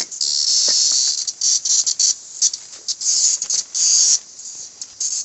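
Thirteen-year periodical cicadas buzzing close to the microphone in loud, irregular bursts that start and stop, some brief and others lasting about a second.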